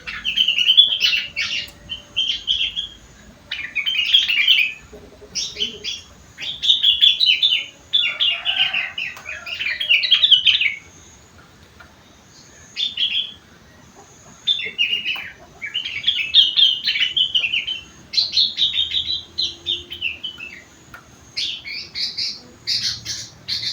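Sooty-headed bulbul (kutilang) singing in quick, chattering bursts of high chirps, with short pauses between phrases; its song is filled with phrases learned from leafbirds (rengganis / cucak wilis).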